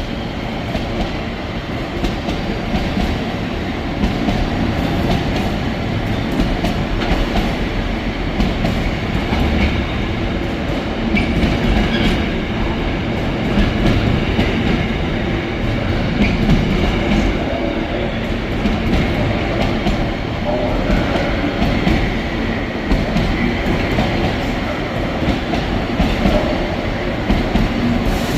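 Intermodal container freight train hauled by two Class 88 locomotives passing through, with a long, steady run of its wheels on the rails.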